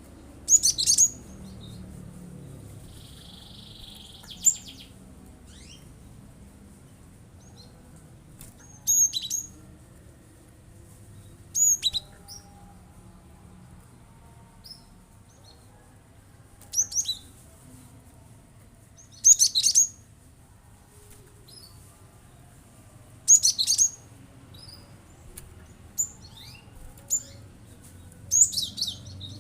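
Gelatik batu (cinereous tit) giving loud, short bursts of sharp high call notes every few seconds, its repeated 'nembak' (shooting) calls, with a short buzzy note a few seconds in.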